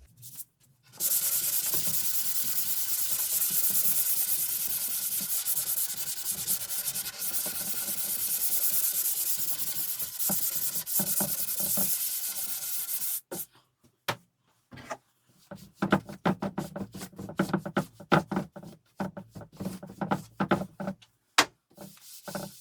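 Wood being sanded: a steady, continuous hiss for about twelve seconds that cuts off suddenly, followed by short, irregular rubbing strokes.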